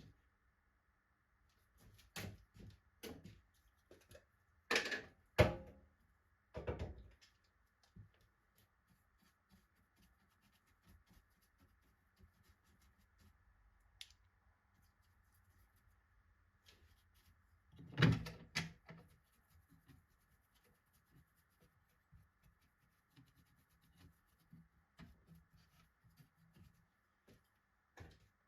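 Scattered knocks and clicks of wooden parts and hardware being handled and fitted, with quiet stretches between them and a louder cluster about 18 seconds in.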